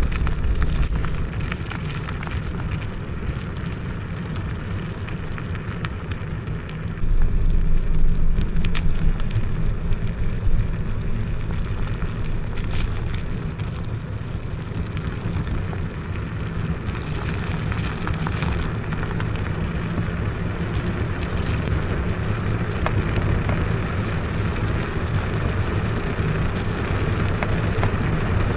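Wind buffeting the microphone and tyre rumble from an IO HAWK Legacy electric scooter riding over a rough, wet forest trail, louder for a few seconds from about seven seconds in.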